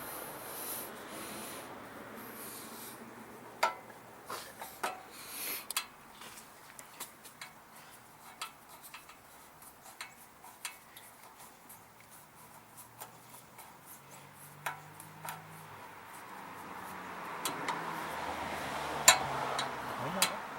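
Hand tool scraping and clicking at a snowblower carburetor, with scattered light metallic clicks. Near the end the scraping grows louder and one sharp click stands out.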